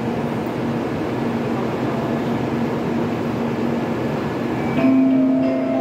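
N700A Shinkansen train standing at the platform with its doors open: a steady hum and rush of station and train noise. About five seconds in, a chiming platform departure melody starts.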